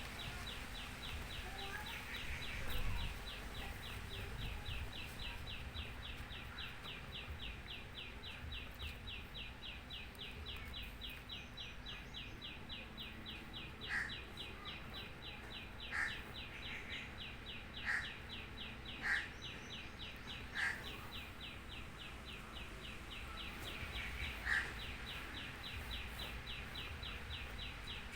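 Birds chirping: a steady, rapid chirp about four times a second, with a few louder short chirps from about halfway on.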